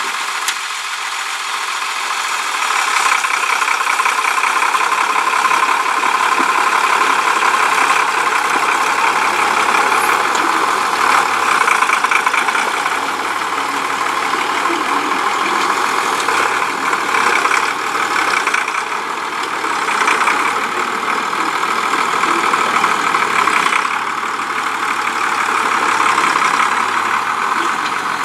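International tractor's engine running steadily.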